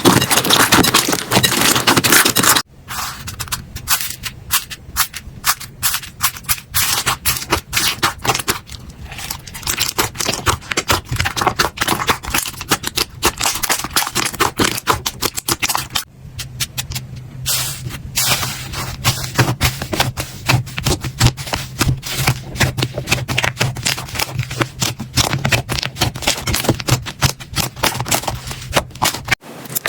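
Slime being squished and poked by hand, giving dense, rapid clicking and crackling. The sound changes abruptly about 3 seconds in and again around the middle as one short clip gives way to the next.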